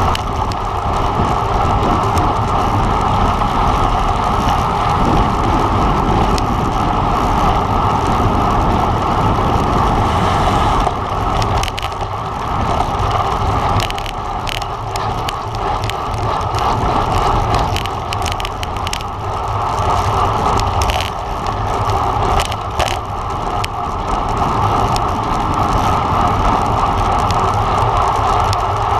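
Steady rush of wind and road noise from a road bike being ridden at race speed, heard on a camera carried on the bike, with a few sharp clicks in the middle.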